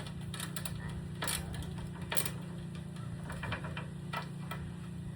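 Scattered light clicks and taps of hand work on a ladder's parts, coming irregularly and closer together near the end, over a steady low hum.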